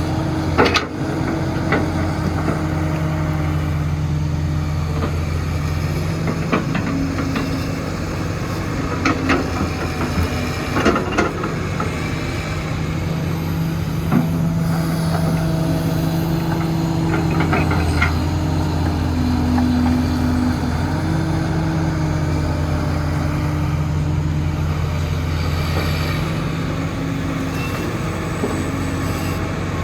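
Diesel engine of heavy construction machinery running steadily, its pitch and load shifting every few seconds as the machine works. A few sharp metallic knocks and clanks come through it.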